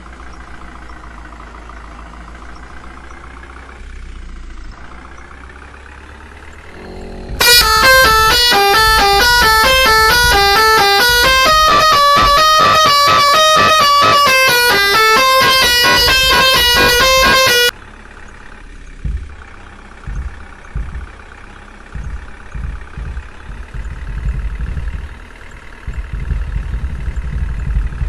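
Truck engine running steadily, then a very loud musical truck horn plays a stepping multi-note tune for about ten seconds. After it cuts off, the engine runs on with irregular knocks.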